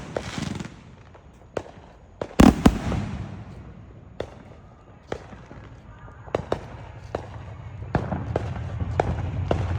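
Neighbourhood fireworks going off at scattered intervals, with two loud bangs close together about two and a half seconds in and sharper pops after them. A low rumble builds toward the end.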